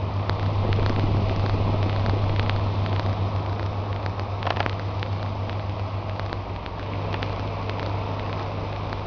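Old Brismead exhaust fan running: a steady electric-motor hum with air rushing, and faint clicks here and there. The hum eases slightly about two-thirds of the way through.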